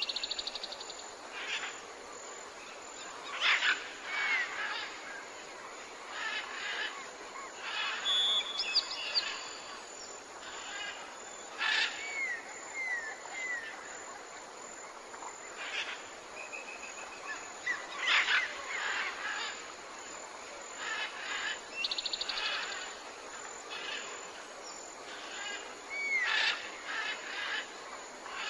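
Wild birds calling and singing: many short chirps, trills and rising-and-falling whistles, scattered irregularly over a steady background hiss.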